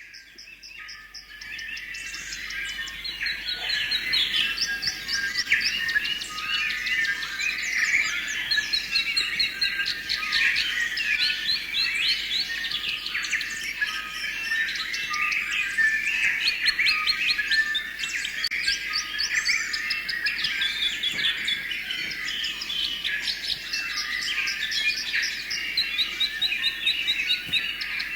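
Many birds singing and calling at once, overlapping chirps and rapid high trills; the chorus fades in over the first few seconds.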